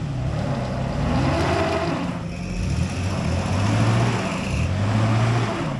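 Off-road vehicle engine revving under load while a stuck vehicle is pulled out of a mud hole. The pitch rises and falls, then holds for stretches.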